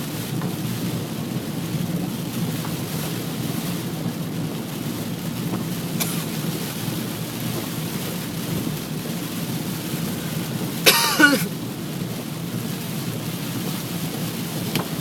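Steady heavy rain, with one short, loud squeal falling in pitch about eleven seconds in.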